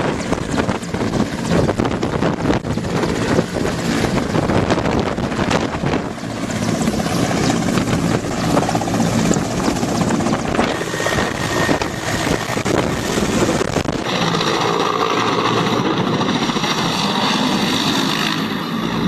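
Military helicopter running loud and close, its rotor chop and turbine engine sounding continuously. About fourteen seconds in the sound changes abruptly and the low rumble drops away.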